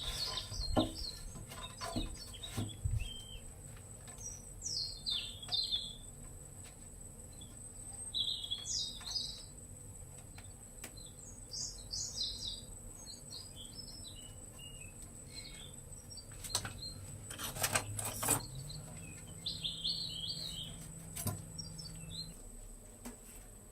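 Small birds chirping in short bursts every few seconds, with a few sharp knocks near the start and again a little past the middle.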